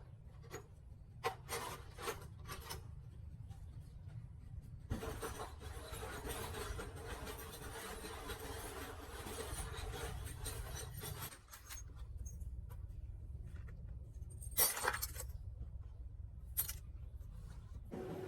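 Hand work on motorcycle engine parts: a few light metallic clinks, then about six seconds of steady rubbing or scrubbing, then two sharper clinks near the end, over a low steady hum.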